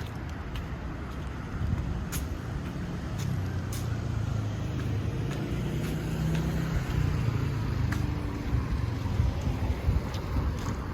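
Road traffic: a motor vehicle's engine running close by, a low rumble that grows louder around the middle and then eases, with a few sharp clicks over it.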